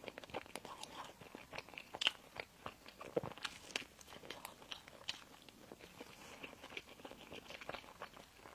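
A person biting and chewing crunchy pastry sweets close to the microphone: a quick, irregular run of crisp crunches and wet chewing clicks.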